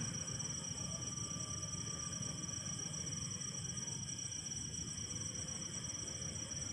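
Crickets trilling in a steady, unbroken high chorus over a low, even background noise.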